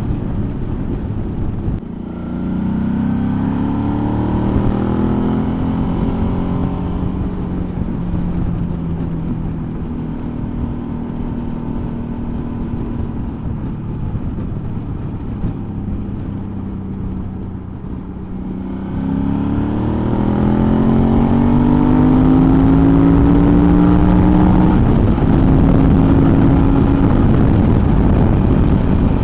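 Suzuki V-Strom motorcycle engine under way, pulling away and rising in pitch about two seconds in, holding a steadier note for a while, then accelerating again with rising pitch past the middle and running louder to the end, over a constant rush of wind.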